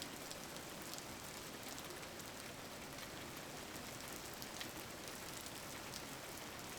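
Steady rain falling on a surface: an even hiss with scattered drops ticking.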